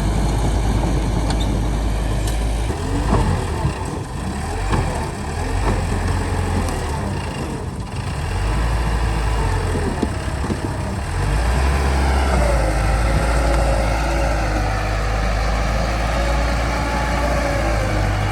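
Bulldozer's diesel engine working under load as it pushes earth, the engine note dropping and rising, with scattered clanks and knocks in the middle and a steadier run near the end.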